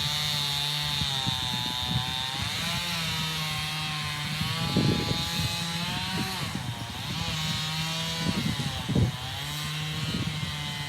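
Chainsaw running at high revs while cutting into an ash trunk, its engine pitch dipping and recovering several times as the chain loads up in the cut, with short louder bursts about five and nine seconds in.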